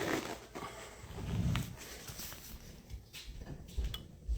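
Irregular handling noise: soft knocks, a low thump about a second and a half in, and a few more low thumps near the end.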